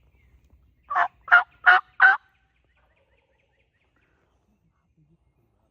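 A turkey calling: four loud, evenly spaced notes about a third of a second apart, about a second in.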